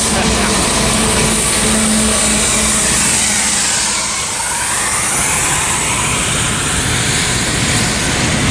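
Westbound double-stack freight train rolling past at close range downgrade, a steady rumble and hiss of wheels on rail, with the locomotives' dynamic brakes working hard.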